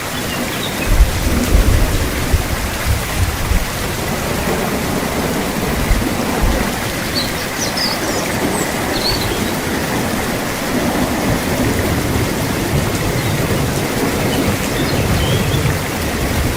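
Steady heavy rain with rolling thunder: low rumbles swell about a second in, peak several times over the next few seconds and return more softly in the second half. A few faint high chirps sound about halfway through.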